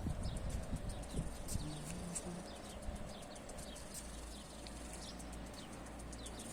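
Small birds chirping: many short, quick high notes in irregular succession, over a faint steady high hiss.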